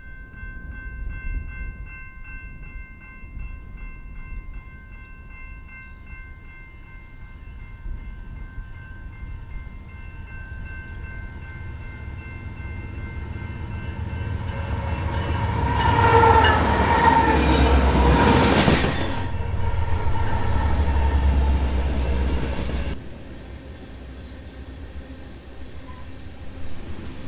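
Freight train approaching with its diesel locomotive sounding a multi-tone air horn chord, held for most of the approach. The sound grows steadily louder until the locomotive passes about sixteen seconds in, with a rush of wheel and engine noise. A heavy engine rumble follows until the sound drops away abruptly about twenty-three seconds in.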